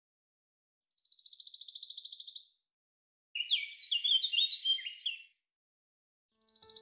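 Songbird calls: a rapid, even high trill lasting about a second and a half, then a burst of varied chirping phrases, then the same trill starting again near the end.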